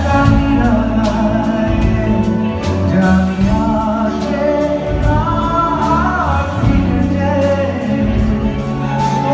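Live band music: a singer over bass notes and drums keeping a steady beat.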